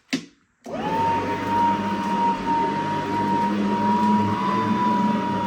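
A click, then a cordless Riccar SuperLite stick vacuum's motor starting under a second in, its whine rising quickly to a steady high pitch over an even rush of airflow as it runs.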